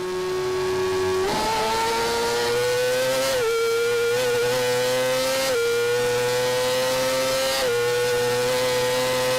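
Racing motorcycle engine running at high revs under hard acceleration. The pitch climbs slowly and dips sharply about every two seconds as it shifts up through the gears.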